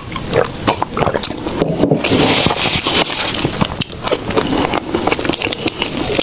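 Close-miked eating of soft desserts: wet chewing and mouth sounds with many small clicks and crackles, and a louder rustling hiss for about a second, two seconds in.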